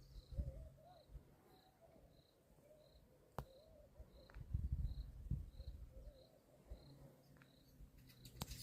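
Quiet outdoor ambience with a short, high chirp repeating at an even pace, about one and a half a second. A sharp click comes about a third of the way in, and low rumbling swells come around the middle.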